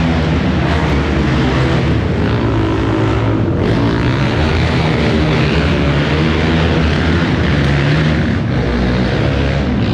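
Monster truck engine running loud, its pitch rising and falling as it revs, with short dips in the revs about three and a half and eight and a half seconds in.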